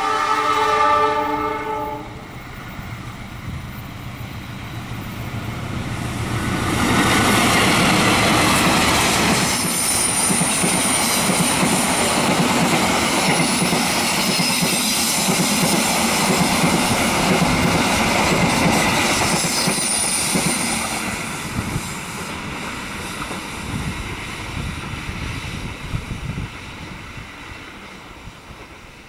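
Indonesian passenger train led by a KAI diesel locomotive: a horn blast of about two seconds at the start. Then the locomotive and carriages run past on a curve, wheels clacking over the rail joints, with brief high wheel squeals, and the sound fades away near the end.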